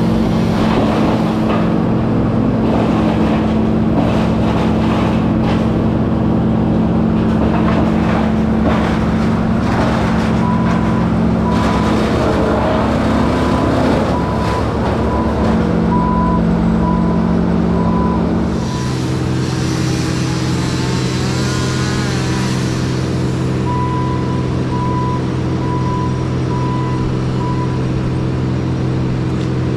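Heavy machinery engine running steadily under load. Its note drops to a lower, steadier pitch about two-thirds of the way through. A regular warning beep sounds in two stretches, in the middle and again near the end.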